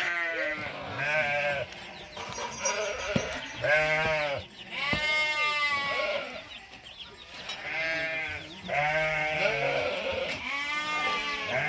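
A flock of sheep bleating, many calls in quick succession and overlapping one another.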